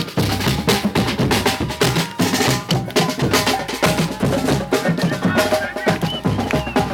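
Music carried by a busy drum beat, with many sharp drum strikes following closely on one another.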